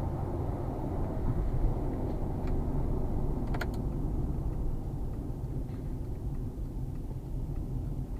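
Steady low rumble of a moving car's road and engine noise, picked up by a dashcam. It is broken by a few short clicks, a pair of them about three and a half seconds in.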